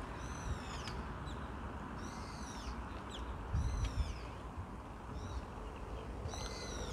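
Small birds calling: high chirps that drop in pitch, about six of them spread a second or so apart. Under them runs a steady low background rush.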